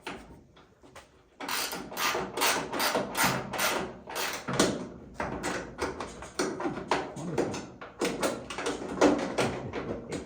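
Socket ratchet being worked on a cab door hinge bolt: a run of sharp repeated clicks, about three a second, with a short pause about four seconds in.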